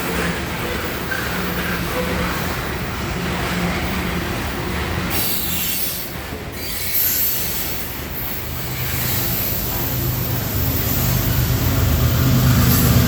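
Freight cars of a grain train rolling past on steel wheels, a continuous rolling noise from the wheels on the rail. A lower rumble grows louder over the last few seconds.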